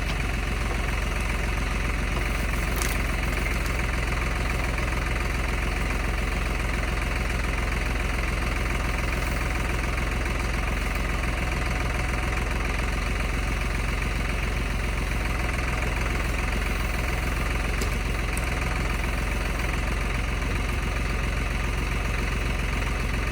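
Tractor engine running steadily at a constant speed, its pitch and loudness unchanging.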